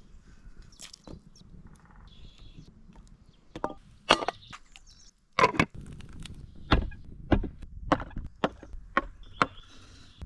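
Chopping on wood: about a dozen sharp, irregularly spaced knocks, the loudest around the middle.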